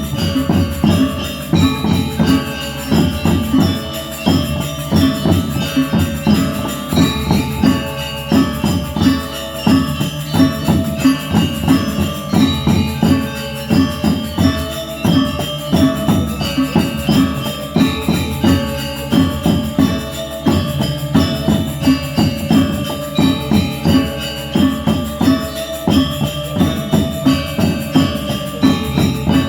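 Balinese gamelan ensemble playing: bronze metallophones and gongs struck in quick, regular strokes, ringing on steady pitches.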